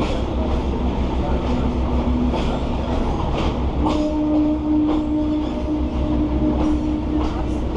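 PeruRail passenger train running on the track: a steady low rumble with clicks from the wheels over the rails. A steady humming tone comes in about four seconds in.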